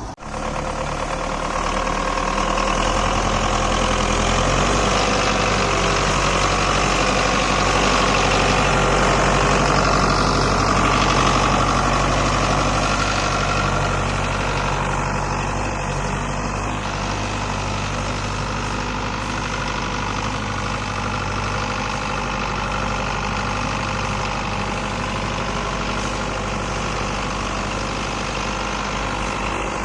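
Heavy diesel engine of farm harvesting machinery running steadily, a little louder through the first half.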